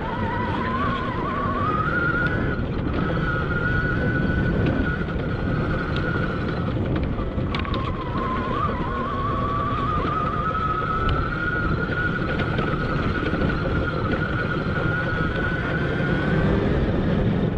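Admitjet Armor electric dirt bike's motor whining under way. The pitch rises over the first two seconds, holds, dips briefly about halfway, climbs back, and cuts out near the end. Heavy wind rumble on the microphone underneath.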